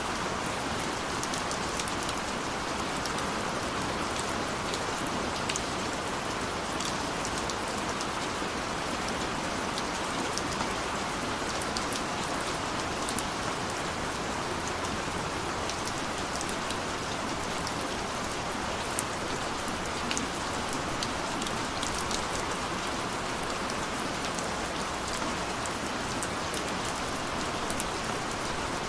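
Steady rain falling, an even wash of sound with many small drop ticks scattered through it.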